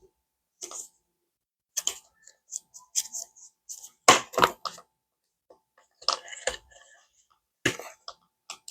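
Paper banknotes and cash envelopes rustling and crinkling as cash is handled and stuffed into budget envelopes, in a string of short irregular rustles.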